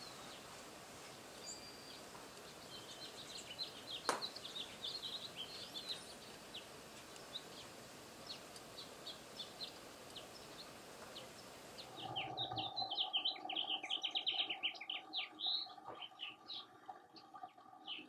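Birds chirping in many short, high calls over a steady background hiss, with one sharp click about four seconds in. The calls grow denser near the end, over a steady hum.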